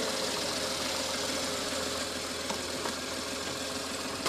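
Datsun hatchback's engine idling with a steady, unchanging hum.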